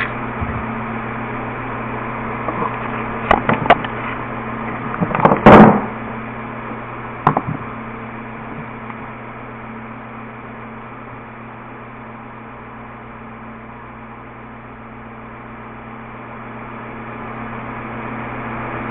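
A steady low electrical hum throughout, with a few sharp knocks and one louder clatter in the first seven or so seconds, like parts or tools being handled.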